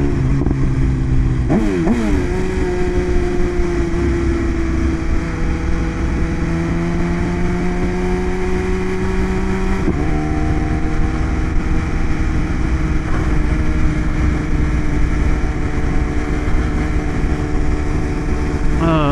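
BMW S1000RR's inline-four engine running under way, heard from the rider's position over a low rush of wind noise. Its revs sweep up sharply about two seconds in and climb slowly, then change pitch abruptly at about ten seconds, and it holds a steady note after that.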